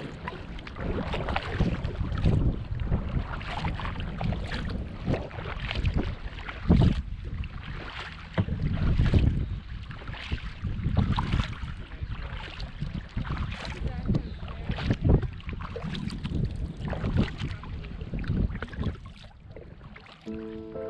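Kayak paddle dipping and splashing in the water, stroke after stroke at an uneven pace, with gusts of wind rumbling on the microphone.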